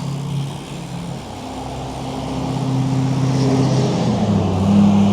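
A motor vehicle's engine running close by: a steady low hum that grows louder and changes pitch about four seconds in, over traffic noise.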